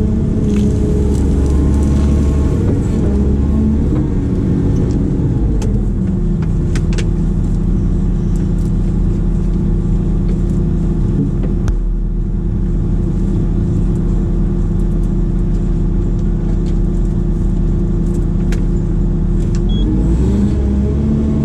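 Heavy machine's diesel engine running steadily; its speed drops to a lower steady note about five seconds in and climbs back up near the end, with scattered light clicks and rattles.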